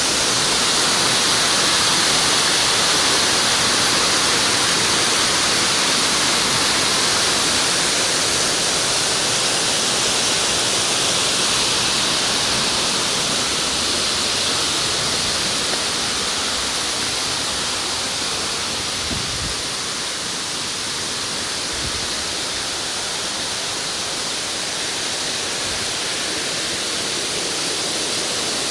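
Waterfall: a steady rush of falling water, easing slightly about two-thirds of the way through.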